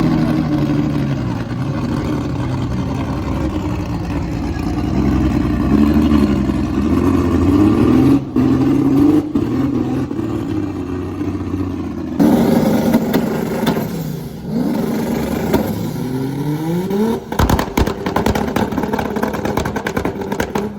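Car engines revving, their pitch rising and falling, in several short clips cut together, with a run of sharp cracks about three-quarters of the way through.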